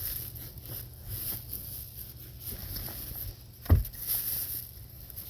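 Fine-grit sandpaper rubbed by hand over a steel axe head in irregular scratchy strokes, with one sharp knock about two-thirds of the way through.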